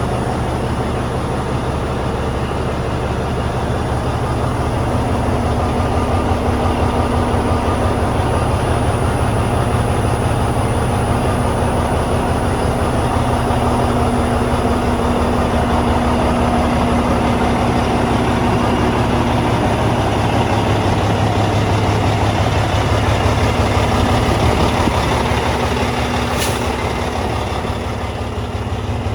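Caterpillar C-16 diesel engine of a 2003 Oshkosh Striker 3000 crash-rescue truck running steadily, with a single sharp click near the end.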